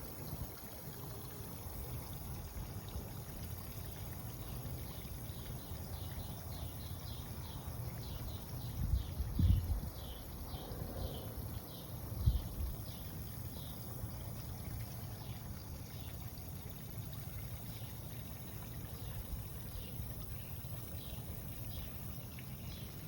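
Steady rush of a waterfall. A series of short high chirps runs through the middle, about two a second. Two low thumps come about 9 and 12 seconds in.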